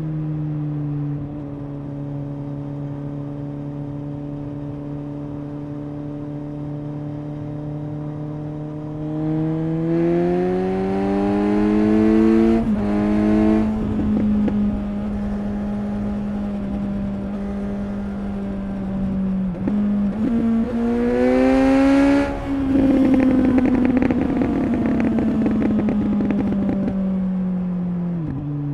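Suzuki GSX-S 750's inline-four engine and exhaust under way. It holds a steady note at first, then pulls up through the revs several times with brief drops in pitch between pulls, like gear changes. It is loudest near the end, where the pitch slowly falls.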